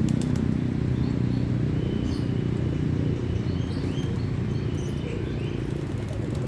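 Birds give short high chirps several times over a steady low rumble, with a few quick clicks or flutters at the very start.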